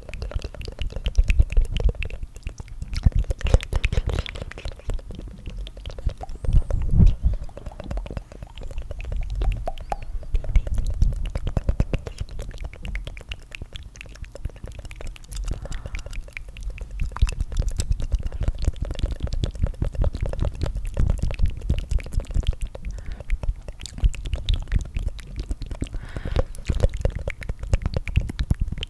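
Layered ASMR tongue fluttering: several overlapping tracks of rapid, wet tongue flutters and mouth clicks close to the microphone, with a deep rumbling undertone.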